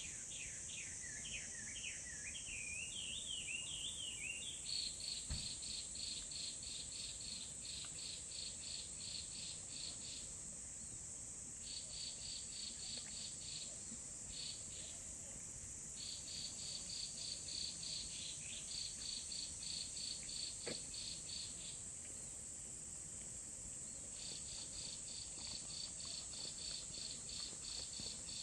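Insects calling in the countryside: a steady high trill underneath, with runs of rhythmic chirps about three a second that stop and start every few seconds. A bird sings a short warbling phrase in the first few seconds.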